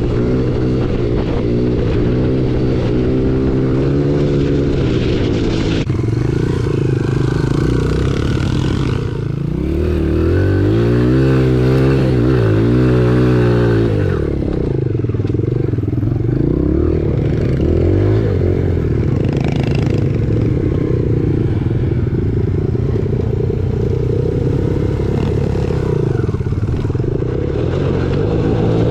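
Honda CRF100F trail bike's small single-cylinder four-stroke engine running under way, its pitch rising and falling with throttle and gear changes. A quick series of revs up and down comes about halfway through.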